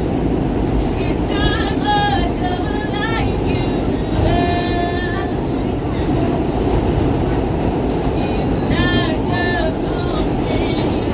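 New York City subway train running, with a steady loud rumble from the car. Several short high-pitched tones rise above it, around two and four seconds in and again near the end.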